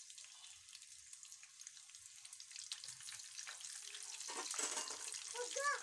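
Samosas deep-frying in hot oil in a kadhai: a steady sizzle with fine crackling that grows louder toward the end. A short pitched call sounds near the end.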